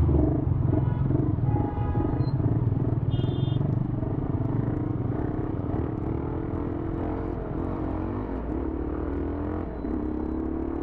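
Motorcycle engine running steadily with a low rumble, its pitch shifting a little as it rides. A short high beep sounds about three seconds in.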